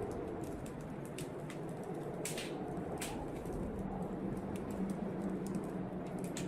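Wood fire crackling in a fireplace: irregular sharp snaps and pops, a few of them louder, over a steady low rush of blizzard wind.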